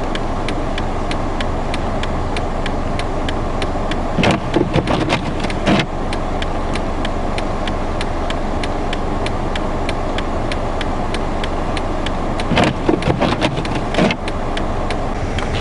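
Inside the cabin of a car idling while stuck in a blizzard: a steady rush of engine and wind noise, with a regular ticking about three times a second. Louder clusters of knocks come about four seconds in and again near the end.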